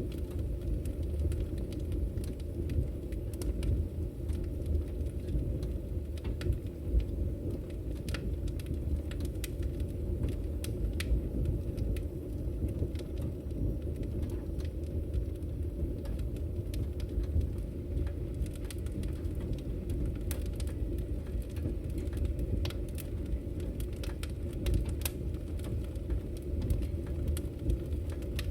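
Wood fire burning in a fireplace: a steady low rumble of the flames with scattered, irregular sharp crackles and pops from the firewood.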